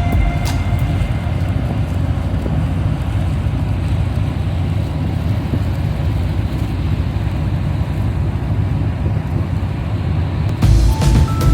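Steady low rumble of a vehicle under way, with an even rushing noise over it. Music comes back in near the end.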